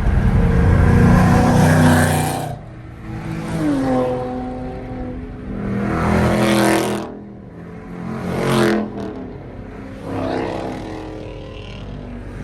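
Car engine accelerating and revving in several loud surges, its pitch rising with each pull, after a loud opening stretch.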